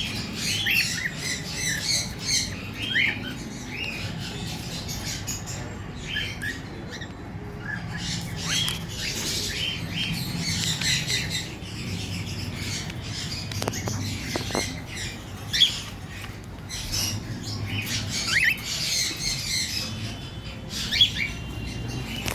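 White cockatiel calling again and again in short squawks and chirps, some rising and some falling in pitch, with a steady low hum underneath.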